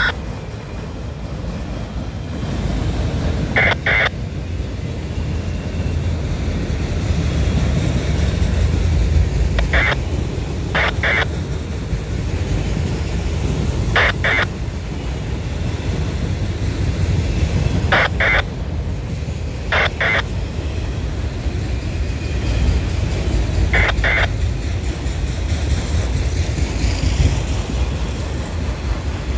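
Freight train of autorack cars rolling past with a steady low rumble, and a paired clack every few seconds as each truck's two wheelsets cross a rail joint.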